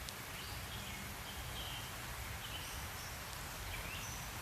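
Birds chirping, short high calls scattered through, over a steady outdoor hiss.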